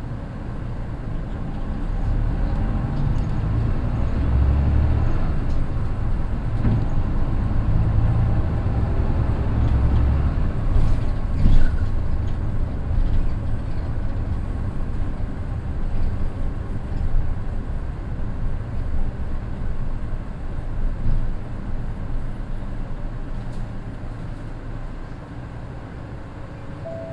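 Mitsubishi Fuso Aero Midi bus's naturally aspirated 6M61 diesel engine and DD5M gearbox heard inside the cabin. The engine builds up as the bus accelerates, with gear whine rising in pitch, then runs steadily and eases off near the end.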